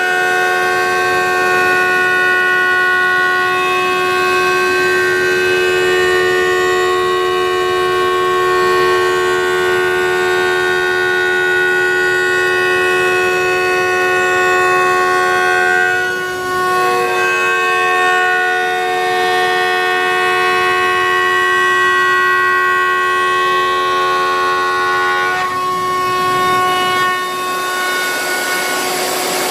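CNC router spindle running with a steady, loud whine while milling a wooden guitar neck. Its overtones waver briefly about sixteen seconds in and again about twenty-five seconds in.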